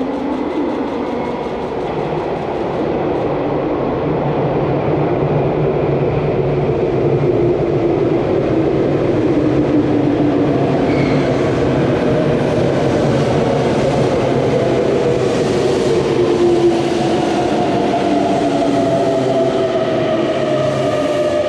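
Tokyu electric commuter train running close by: a steady rumble of wheels on rail, with the motors' whine falling in pitch in the first half and a higher whine rising near the end.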